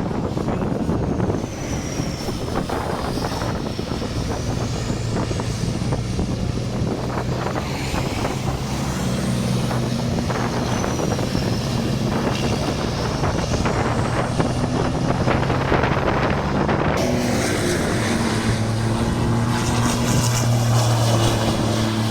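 Heavy truck engines running, a steady low drone that grows stronger after about nine seconds and again near the end.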